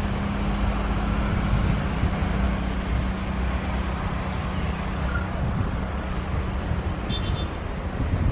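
A steady engine drone with a constant hum, mixed with wind buffeting the microphone.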